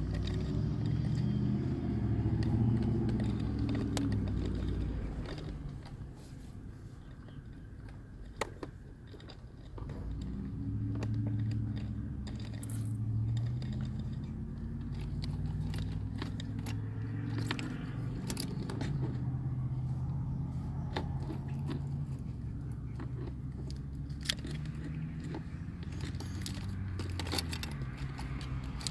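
Car engine running, its low hum rising and falling in pitch, loudest in the first few seconds, with scattered clicks and rattles.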